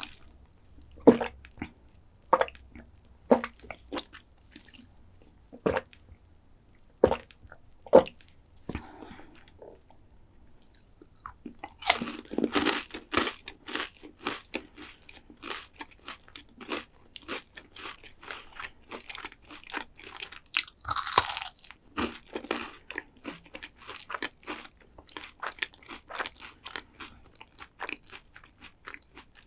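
Close-miked crunching and chewing of a chocolate dessert. Single sharp crunches come about a second apart at first, then from about twelve seconds in the crunching and chewing turn dense and continuous, with the loudest crunch a little past twenty seconds.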